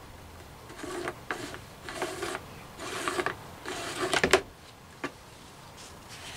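Four short rasping mechanical strokes about a second apart, each with a run of clicks, the last the loudest, then a single click about five seconds in.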